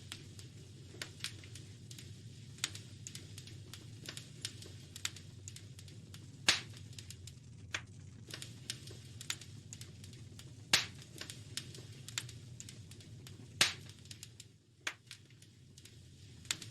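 Wood fire in a fireplace crackling, with irregular sharp pops, three of them louder than the rest, over a low steady rumble.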